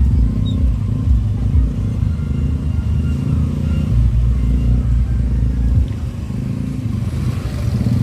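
Heavy, distorted bass from a loud 'horeg' parade sound system, a deep pulsing low rumble that eases somewhat about six seconds in.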